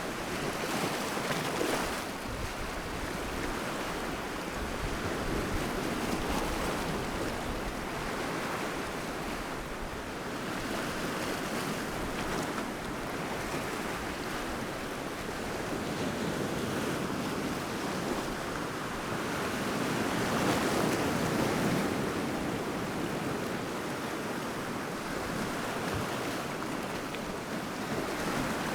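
Sea waves breaking and washing on the shore, a continuous surf hiss that swells louder and eases off every several seconds.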